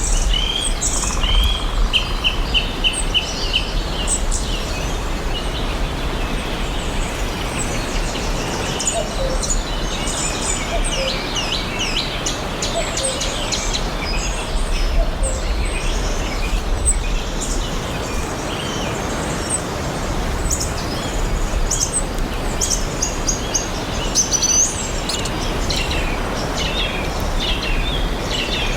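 Several wild birds chirping and singing, with short calls and quick trills of repeated notes overlapping throughout, over a steady background hiss and low rumble.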